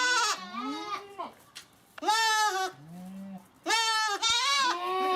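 Several goats bleating, one loud wavering call after another with some overlapping, and a short lower-pitched bleat about three seconds in.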